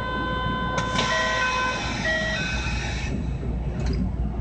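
Onboard sound of a Kintetsu 6820-series electric train: a steady low rumble with a high, even electrical whine that stops about two seconds in. A hiss lasts about two seconds, and two pairs of short beeping tones sound within it.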